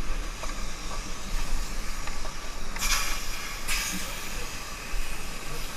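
Steady rushing of river water, with two short, louder hissing splashes about three and four seconds in.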